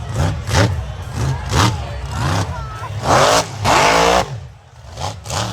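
Mega truck engine revving in quick repeated blips, its pitch rising and falling about twice a second, with two longer, louder revs a little past halfway.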